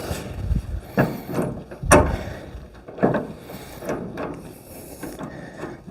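Clunks and scraping of metal parts being handled while a car hood is fitted to its hinges, with a sharp knock about two seconds in.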